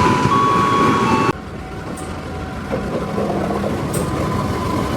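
Train running past with a loud rumbling noise that cuts off abruptly about a second in, followed by quieter rail and street background noise.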